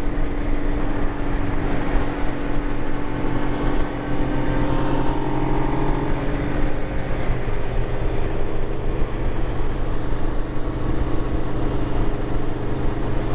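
Motorcycle engine running steadily at highway cruising speed, with wind rushing over the microphone. The drone shifts briefly in pitch about four seconds in.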